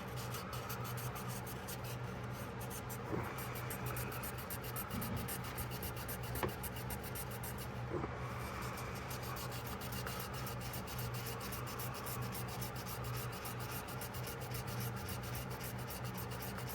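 Steady hand rubbing on a pocketknife blade, a cloth working cleaner against the rusty steel, over a steady low hum. There are a few light clicks.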